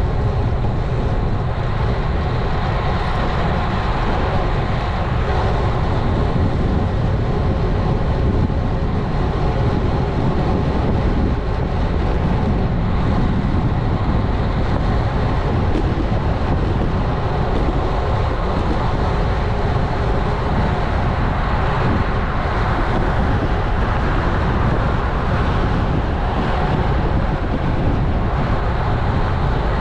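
Steady rush of wind and road noise picked up by a bike-mounted action camera while riding, heaviest in the low end and unbroken throughout.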